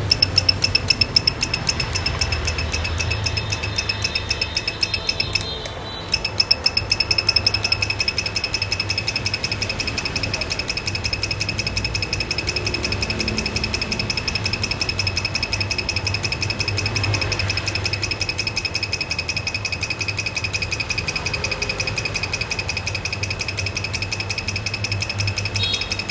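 A fast, steady mechanical clatter with a thin high whine. It breaks off briefly about six seconds in, then runs on evenly.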